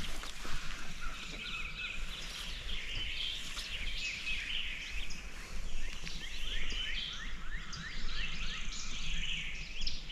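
Chorus of wild songbirds: many overlapping chirps and whistles, with a run of quick repeated downward-slurred notes in the middle.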